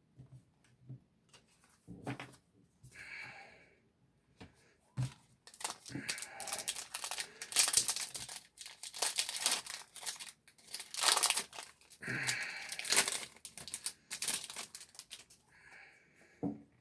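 Foil wrapper of a Yu-Gi-Oh booster pack being torn open and crinkled in the hands. The dense crackling runs from about five seconds in to about fifteen.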